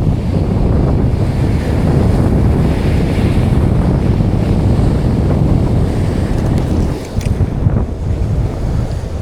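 Strong wind buffeting the microphone: a loud, steady low rumble that eases briefly about seven seconds in.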